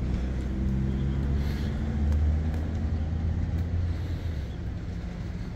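A motor vehicle's engine running close by on the street, with a low hum that grows loudest about two seconds in and then fades away, as a car passing the walker would.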